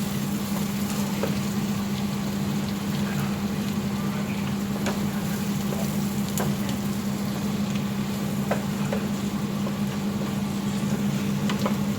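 Onion-tomato masala sizzling in a kadai as it is stirred, a spatula clicking against the pan every second or two, over a steady low hum.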